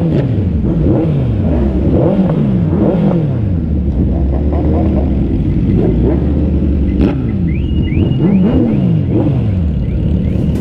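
Superbike engines revving over the steady running of idling bikes. Throttle blips come again and again, each pitch falling away after the rev.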